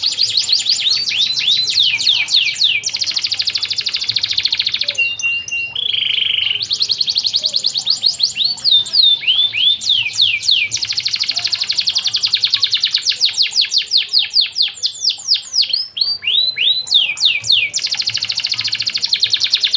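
Canary singing a long, continuous song of fast rolling trills and repeated down-sweeping notes, with a short held note about five seconds in.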